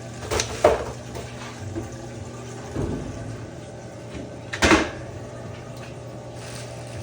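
A few knocks and clunks from parts being handled during a washer suspension-rod repair, the loudest about four and a half seconds in, over a steady low hum.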